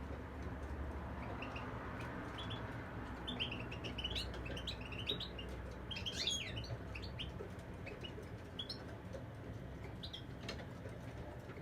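European goldfinch singing: quick twittering phrases of short, high chirps and fast slurred notes, busiest in the middle.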